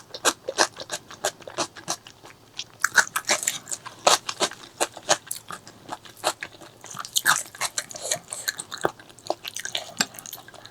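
Close-miked eating: steady chewing and biting, with quick wet clicks and crunches several times a second.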